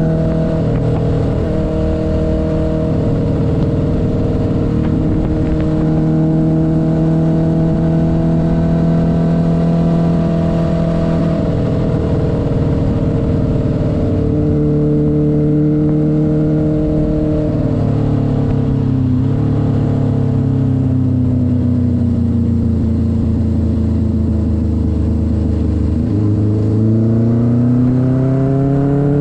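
1972 Honda CB500's air-cooled inline-four engine running under way. Its pitch holds steady, falls for about ten seconds as the bike slows, then rises again as it accelerates near the end.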